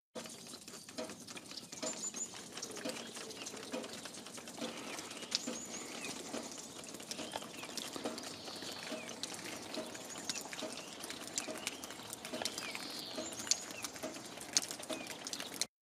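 Birds chirping and calling with short high notes, over a steady scatter of small clicks and ticks.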